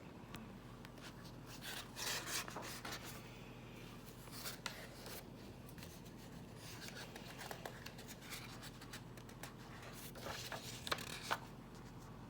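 Paper pages of a book being handled and turned: soft rustling in several short spells, with a few light taps.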